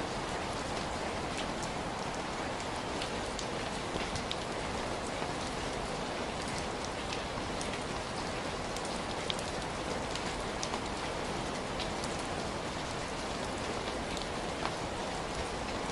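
Heavy rain falling steadily: a dense, even hiss of rainfall with scattered individual drops ticking on a surface.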